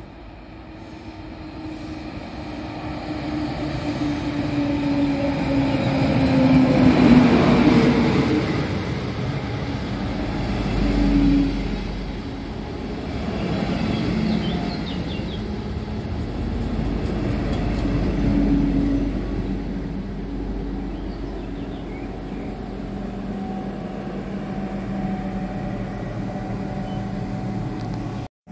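A train passing close by. It grows louder to a peak about seven seconds in, with a tone that falls in pitch as it goes by, then carries on as a steadier rumble.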